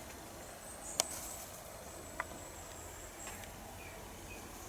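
Faint outdoor background with a low steady rumble, a thin high whine lasting about two seconds, and two sharp clicks, the louder one about a second in.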